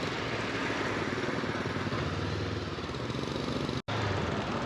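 Motorcycle engine running steadily while riding, with wind and road noise rushing over the microphone. The sound cuts out for an instant nearly four seconds in.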